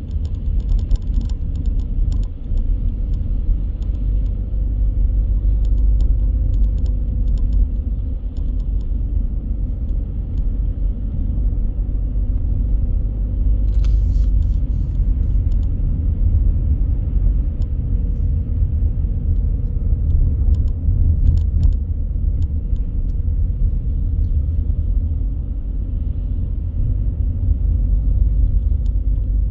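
Car driving, with a steady low road and tyre rumble and a faint steady hum. A few light clicks come through, most clearly about fourteen seconds in.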